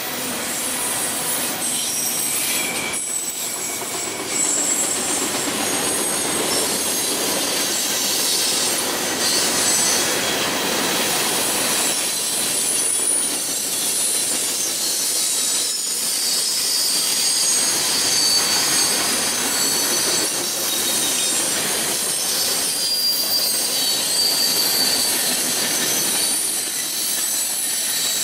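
Freight train cars rolling past on the rails, a continuous noise of wheels on track with thin, high-pitched wheel squeals coming and going over it.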